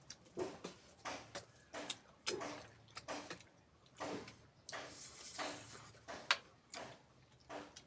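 Close-miked eating: wet chewing and lip smacks on pork feet and rice, coming as irregular sharp clicks about one to two a second.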